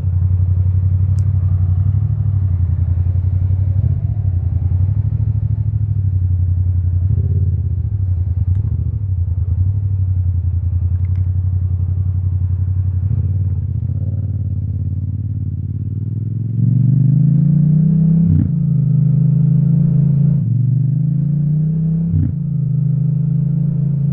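Yamaha MT-07's parallel-twin engine through an Akrapovic titanium exhaust, running at low, steady revs for most of the stretch. About two-thirds of the way through it pulls away, the pitch rising in sweeps with brief dips at each of three gear changes.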